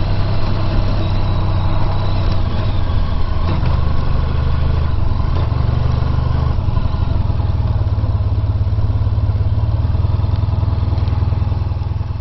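Honda VFR1200X Crosstourer's V4 engine running steadily at low revs, near idle, its note shifting slightly a couple of times.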